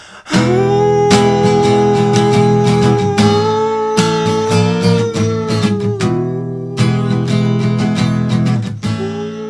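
Strummed acoustic guitar with a long, held wordless "uuuh" sung over it; the sung note ends about six seconds in and another begins near the end.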